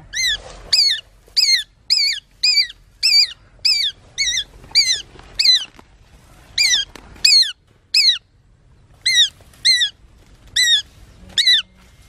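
A bird's short, sharp squawking calls, each a brief high note that curves down in pitch, repeated about every half second in runs with short pauses between.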